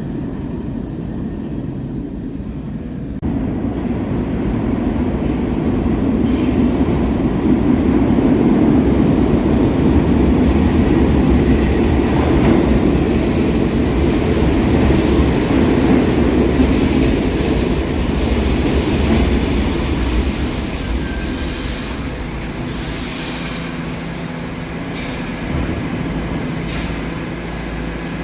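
A New York City subway train running on the rails: a low rumble that jumps louder about three seconds in and eases off after about twenty seconds, with faint high wheel squeal in the later part.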